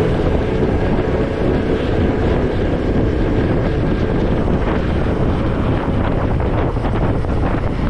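Motorcycle running while riding, with heavy wind buffeting on the microphone.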